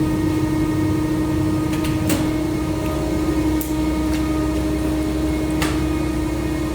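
A 150-ton servo plastic injection moulding machine running with a steady hum, its pump and motor holding one constant tone, with a sharp click about two seconds in and another near six seconds and a brief hiss in between.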